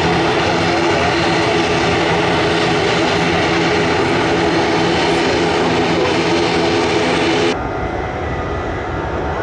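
Jet airliner engines running loud and steady, a dense roar with a steady hum of tones in it. About seven and a half seconds in it cuts abruptly to a lower, duller engine rumble.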